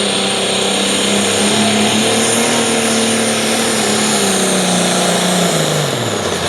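Turbocharged diesel engine of a Light Limited Pro Stock pulling tractor running hard at high revs under the load of the sled. Near the end the revs drop quickly and a high turbo whine falls away as the pull ends.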